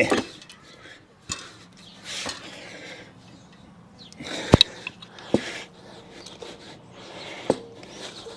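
A few sharp knocks and clunks of a motorcycle fork tube and its parts being handled and set down, the loudest about halfway through, with short soft rustling noises between them.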